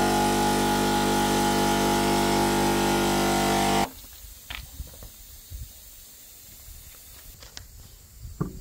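Electric air compressor running steadily, inflating a repaired tyre, then switched off abruptly about four seconds in. A few faint knocks follow.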